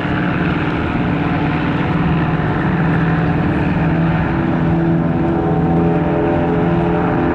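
Propeller aircraft engine drone from a vintage-type plane in flight, steady and continuous, its pitch shifting slightly over the second half.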